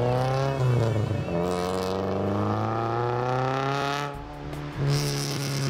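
Fiat 128 rally car's tuned 1300 four-cylinder engine accelerating: the revs drop at a gear change about a second in, climb steadily for about three seconds, dip briefly near the end, then pick up again.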